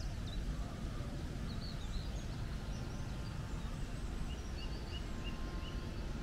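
Wild birds singing: scattered short high chirps and whistles, with a run of about five quick even notes about halfway through, over a steady low rumble.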